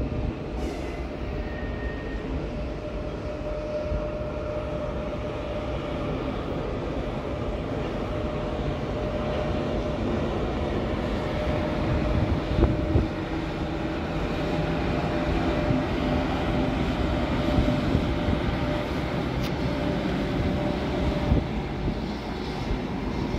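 Electric locomotive hauling a single passenger coach past on the line, running with a steady hum and a held whining tone, growing louder toward the middle of its pass.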